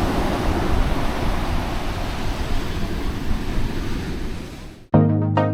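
Ocean surf breaking on the beach with wind buffeting the microphone, a steady rushing noise that fades out near the end. Music with clear melodic notes cuts in just before the end.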